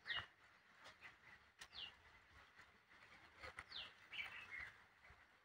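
Faint bird calls: three short chirps that each fall in pitch, about two seconds apart, with a brief run of lower notes about four seconds in.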